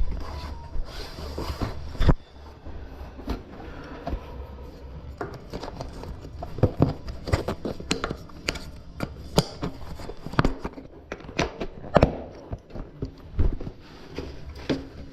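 Irregular clicks, knocks and rattles of hand work on a bicycle wheel and tyre, with the sharpest knocks about two seconds in and near twelve seconds.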